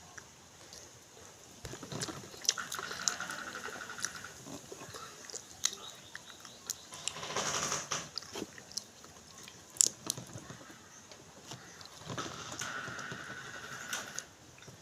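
Close-up eating sounds: chewing and mouth smacking in several spells, with sharp little clicks scattered between.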